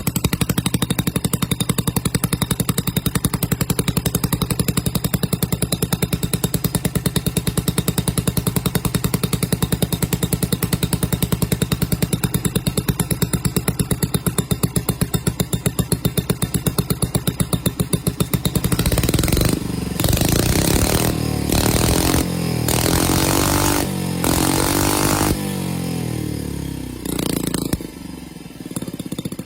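Miniature 2.2cc twin-cylinder four-stroke gasoline engine running with a fast, even firing beat. About two-thirds of the way in its speed rises and falls several times, then dips briefly before it settles back to a steady run near the end.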